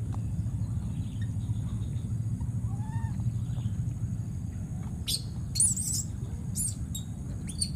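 Birds chirping outdoors: a few short, high chirps in the second half, over a steady low rumble.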